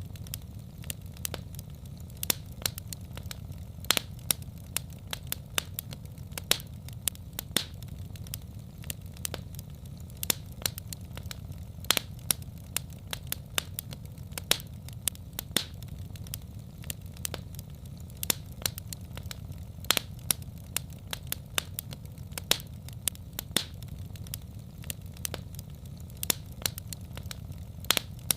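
Wood fire crackling and popping: frequent sharp irregular pops over a steady low rumble of the burning fire.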